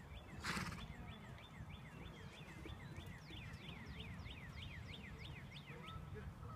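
A songbird singing a long, rapid series of slurred whistled notes, about three or four a second, over a low rumble. A short hissing puff sounds about half a second in.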